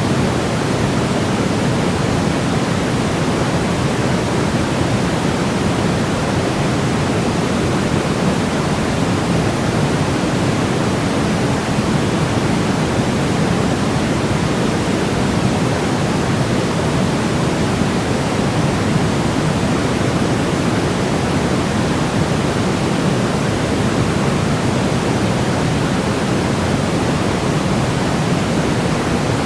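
Steady generated white-noise sleep sound: an even, deep hiss with most of its weight in the low range, unchanging, with no rhythm or breaks.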